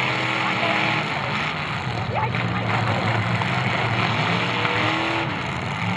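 Several demolition derby cars' engines running and revving together, a steady loud mix, with the voices of a crowd of spectators over them.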